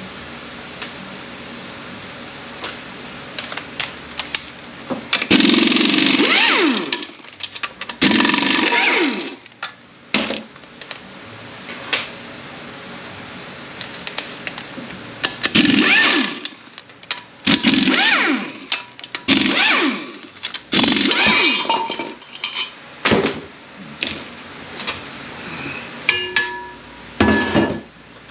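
Power wrench spinning out the bell housing bolts of an A650E automatic transmission in short bursts of a second or two, about eight of them, its motor pitch sliding up and down in each, with light metal clinks of bolts and sockets between.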